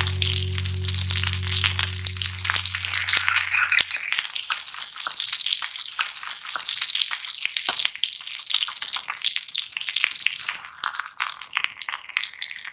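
Food sizzling and crackling in a hot frying pan, a dense run of fine pops and hiss that thins a little near the end.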